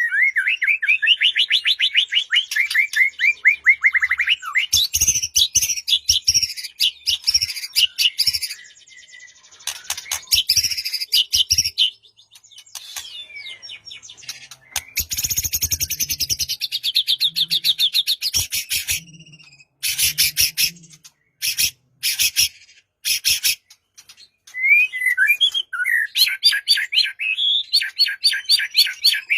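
White-rumped shama (murai batu) singing a varied song of rapid trills and sharp rattling notes, broken by short pauses.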